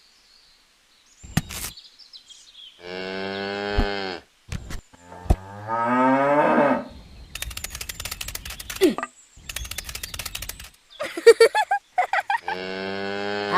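A cow mooing three times in long, drawn-out calls, the second rising in pitch. Between the second and third moo there is a rapid rattling buzz.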